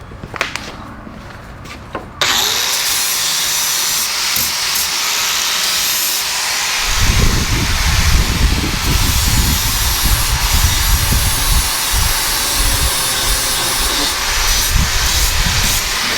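A few light knocks, then an angle grinder starts suddenly about two seconds in and runs on, grinding stainless steel, with a heavier rumble from about seven seconds in as it bears into the metal.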